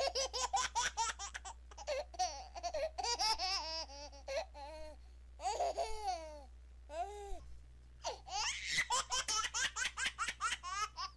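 A baby laughing: runs of quick, high-pitched giggles broken by a few longer squeals that rise and fall.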